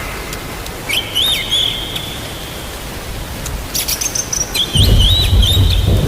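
Birds chirping in short phrases of quick rising notes, about a second in and again near the end, over a steady hiss of rain. A low rumble of thunder comes in near the end and is the loudest sound.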